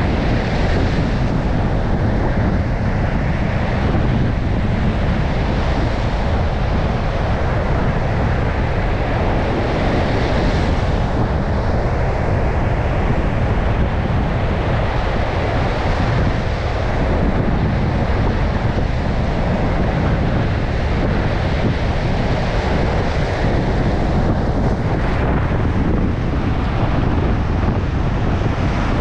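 Storm surf breaking continuously on a beach, with strong wind buffeting the microphone in a heavy low rumble. The hiss of the breakers swells up a few times.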